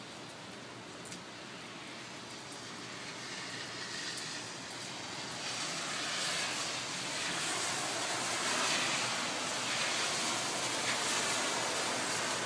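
Steady rushing noise of heavy rain and running water, with a few faint drop-like ticks at first, swelling louder about five seconds in and holding there.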